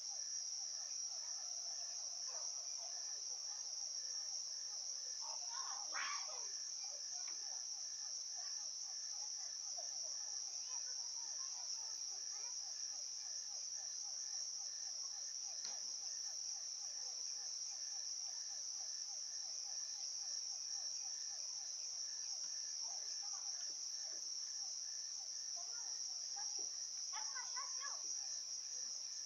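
Crickets trilling in a steady, high-pitched chorus, with a fainter, lower rapid pulsing call under it and faint distant voices.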